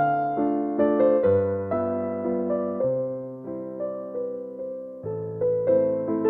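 Slow, gentle piano music: notes and chords struck every second or so and left to fade.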